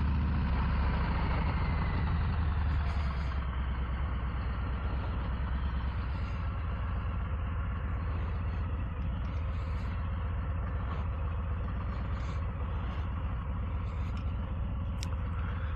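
Harley-Davidson Low Rider ST's Milwaukee-Eight 117 V-twin running at low revs, a steady low rumble that eases off a little about three seconds in.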